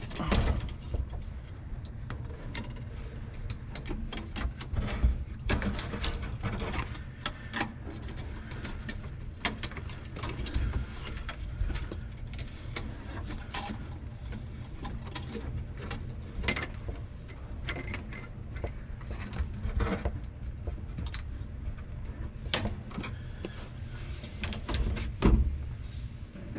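Small irregular metallic clicks and ticks of safety wire being hand-twisted and worked between the oil filter lug and the engine lug, with a low rumble underneath.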